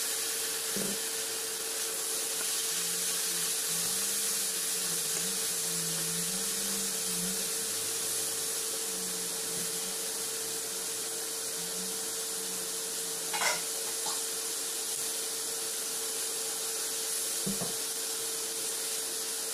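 French beans and pieces of meat sizzling steadily in a hot wok just after the beans go in, over a steady hum. A few light knocks from the pan.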